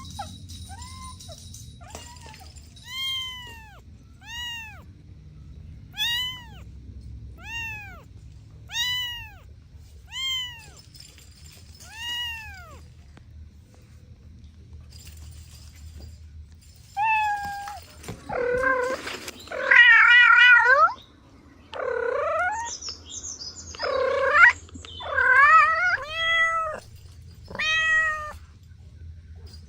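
Kittens meowing. First comes a run of about eight short, evenly spaced meows, each rising and then falling in pitch. After a pause there is a louder, lower, more wavering series of meows.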